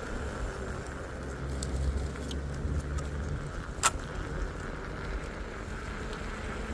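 Small 125 cc four-stroke motorbike engine running steadily under way, with wind and road noise around it; the engine hum is stronger for the first three seconds or so, and there is a single sharp click about four seconds in.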